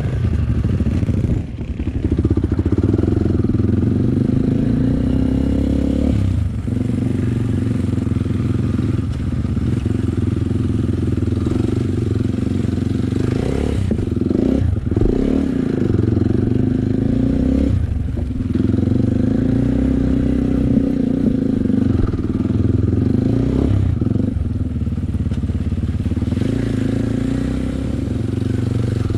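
Dirt bike engine running under way, its pitch dropping and climbing again several times as the throttle is closed and reopened or gears are changed.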